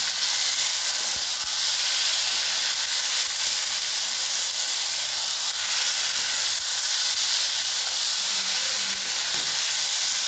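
Okra and onions sizzling steadily in a hot aluminium kadai while a metal spatula stirs them.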